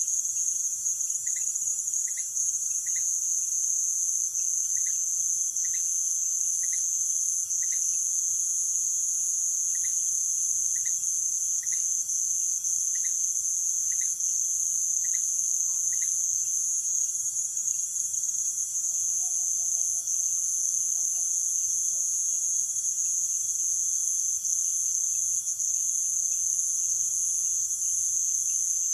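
Nighttime rainforest insect chorus: a dense, steady high-pitched shrill. Over the first half, a short pip repeats about once a second, and a few faint lower wavering calls come in past the middle.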